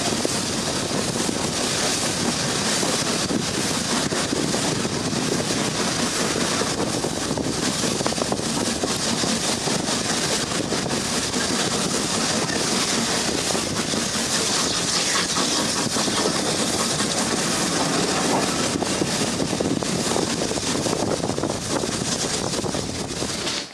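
Railway train running: a steady, loud running noise that cuts off suddenly at the end.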